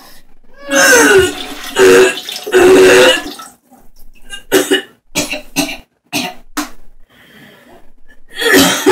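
A person vomiting: three loud, wet retching heaves with liquid splashing, then shorter gags and coughs, and another big heave near the end.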